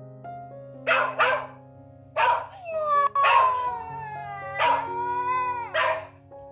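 A dog barking and howling: two quick barks, then a bark that runs into a long howl sliding down in pitch, and more barks, over background piano music.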